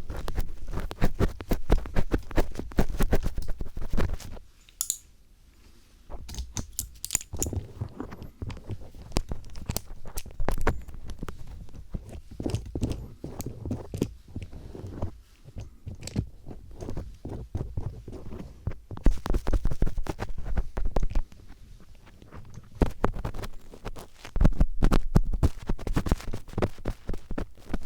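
Phillips screwdriver tip scraping and tapping in mock earwax picking on a microphone, a dense run of close crackly scratches and clicks. It pauses briefly about five seconds in.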